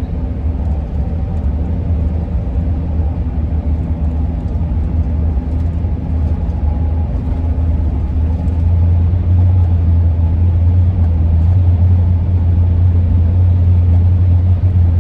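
Steady engine and road rumble inside the cab of a 2001 Ford E-350 van at about 35 mph, growing louder about eight or nine seconds in. Over it runs a steady hum: the howl of wind across the roof rack, which is what makes the noise.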